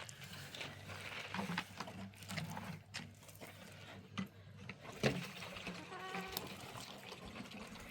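A bleat from livestock, a goat or sheep, once about six seconds in, with a single sharp knock just before it.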